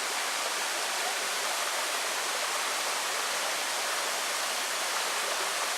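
Waterfall rushing steadily: a constant hiss of falling water that does not change.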